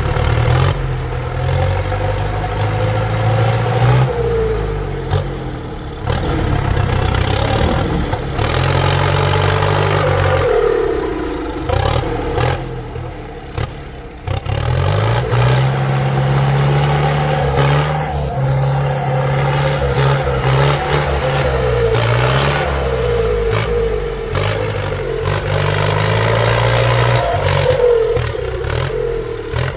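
Heavy vehicle engines running under load and revving, their pitch rising and falling again and again.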